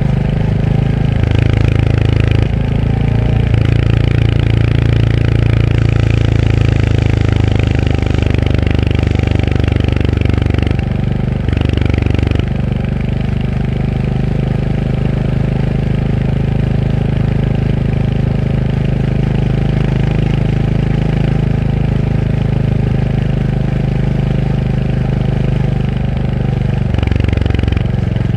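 Royal Enfield Hunter 350's single-cylinder engine running under way. The engine note shifts in steps a few times in the first half and again near the end, with a long steady stretch in between.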